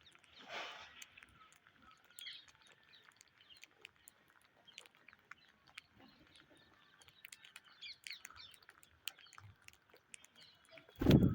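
Indian ringneck parakeets making scattered soft clicks and a few short chirps, with a brief rush of noise about half a second in. A loud, deep thump comes near the end.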